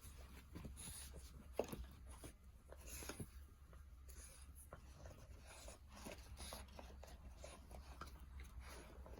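Faint scratching and rustling with scattered small clicks and taps, over a low steady hum.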